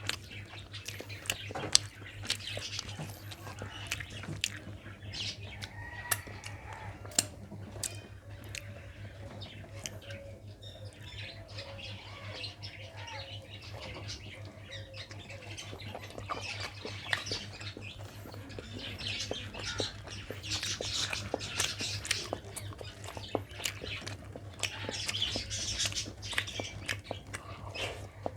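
Close-up eating sounds of rice and mutton curry: many short wet clicks and smacks of chewing, with birds chirping and squawking in the background and a steady low hum.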